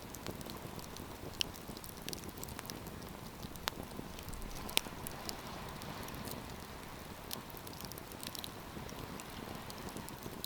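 Wood campfire burning, with a steady soft rush under scattered sharp crackles and pops; the loudest pop comes about five seconds in.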